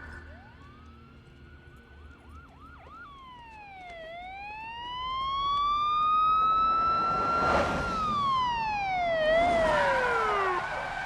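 Police car siren starting up with a few short whoops, then a slow wail that falls, rises and falls again, growing louder from about halfway. A rush of noise comes in about seven and a half seconds in.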